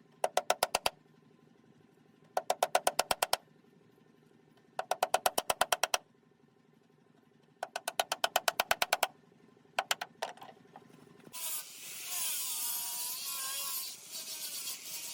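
Rapid knocking in bursts of about a second, roughly a dozen ringing strikes a second, repeating every two to three seconds. Near the end a power tool starts on wood with a loud hiss and a wavering whine.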